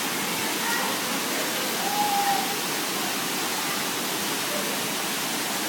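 Waterfall: a steady, dense rush of falling water, with a short faint tone about two seconds in.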